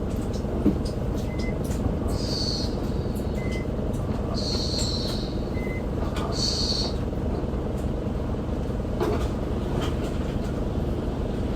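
Interior running sound of an Isuzu Erga city bus (QDG-LV290N1) under way: steady engine and road rumble from its four-cylinder turbo diesel. A faint short high beep repeats about every two seconds in the first half, with brief high hisses between.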